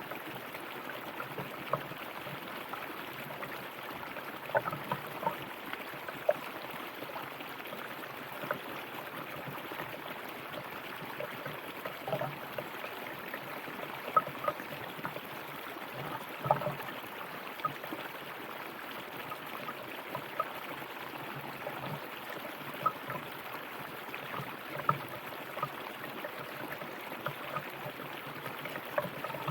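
River water running over rocks: a steady rush with frequent small splashes and gurgles.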